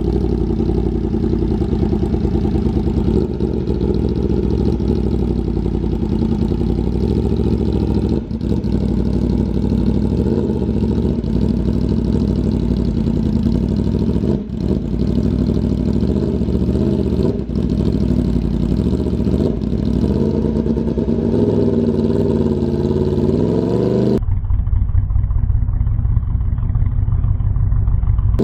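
Aprilia RSV4 Factory's V4 engine through a Racefit slip-on exhaust, running and revving, its pitch rising and falling several times. There are a few sudden breaks between takes, and near the end the sound abruptly turns muffled, with only the low rumble left.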